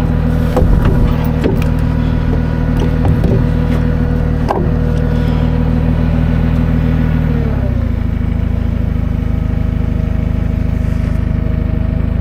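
Heavy truck or equipment engine running steadily at raised speed, its note dropping back to a lower idle about eight seconds in, with a faint steady whine over it and a few short knocks.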